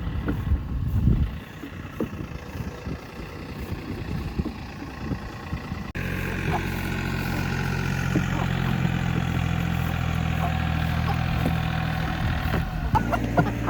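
Tractor engine running steadily at an even idle, coming in abruptly about six seconds in. Before it comes a few seconds of uneven low noise.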